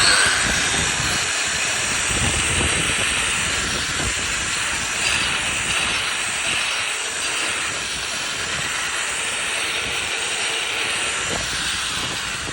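Concrete surface grinder switched on and running steadily with a loud, even noise; a short rising whine at the start as it spins up.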